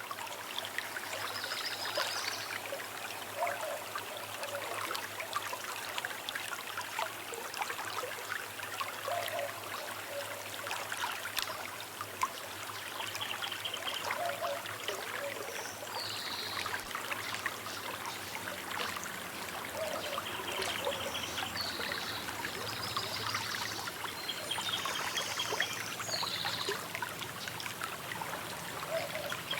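Small river running steadily over stones, a continuous babbling and trickling. Short high bird chirps come and go throughout.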